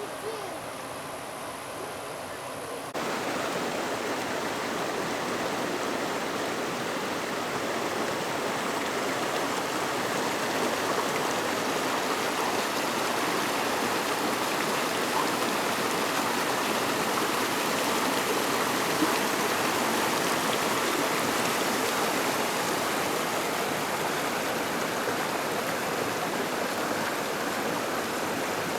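Rushing water of the McCloud River, a steady, even rush that jumps louder abruptly about three seconds in.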